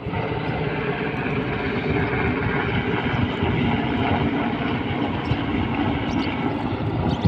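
Helicopter running close by: a loud, steady rush of rotor and engine noise with a fast low flutter.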